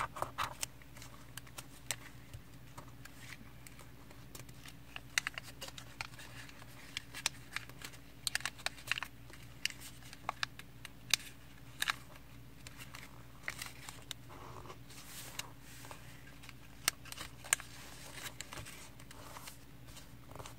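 Origami paper being folded and creased by hand: irregular crinkles, rustles and sharp little snaps as folds are pressed flat, over a faint steady hum.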